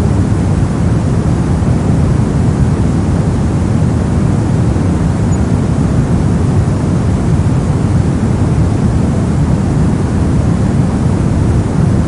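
Steady soft noise, an even deep hiss weighted to the low end, with no changes or events.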